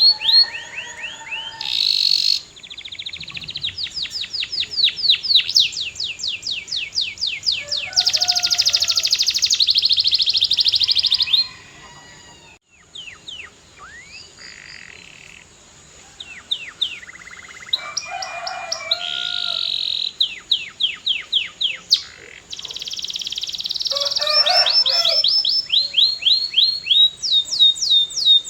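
Canary singing long, rapid trills of repeated high sweeping notes, each phrase a fast run of the same note, broken by a few lower notes and a short quieter lull about halfway through.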